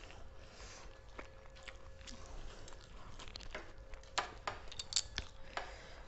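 A person chewing and biting food, with short crunches that come thicker and louder in the second half.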